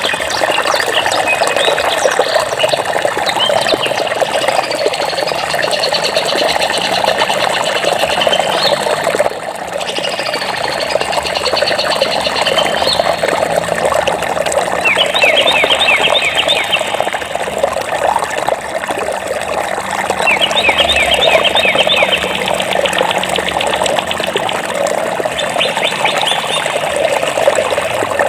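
Steady rush of flowing stream water with birds chirping over it, including several rapid trills of quickly repeated notes. The whole sound briefly drops out and resumes about nine seconds in.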